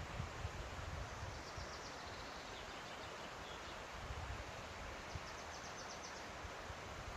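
A small songbird giving a fast, high trill twice, about a second and a half in and again near the end, faint over a steady rustle of wind, with low rumbles of wind on the microphone.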